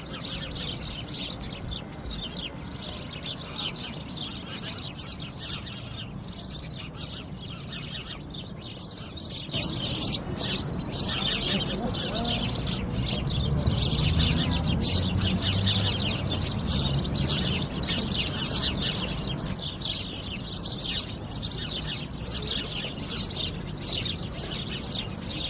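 Many small birds chirping rapidly and continuously, a flock twittering together, with a low rumble from about ten seconds in.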